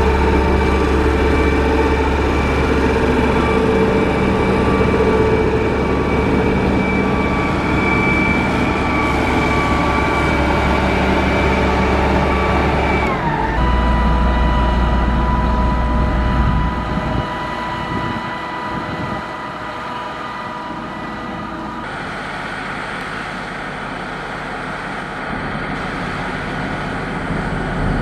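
Motor grader's diesel engine running steadily with a whine over it. About halfway through the whine drops in pitch and settles on a lower note, and the machine grows quieter soon after.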